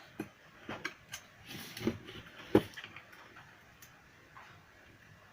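Scattered small clicks and knocks of a Bluetooth speaker's plastic parts and tools being handled during repair, with one sharper knock about two and a half seconds in.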